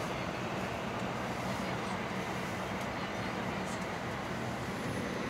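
Shinkansen carriage interior noise: the steady rumble and hiss of the train running, heard from inside the passenger cabin.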